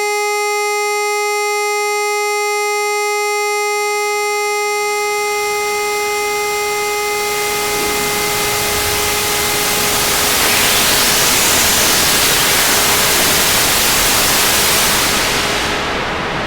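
Electronically generated sound: a steady buzzy tone with many overtones fades out as loud white noise fades in. Near the end the hiss loses its highest frequencies and turns duller, like pink noise.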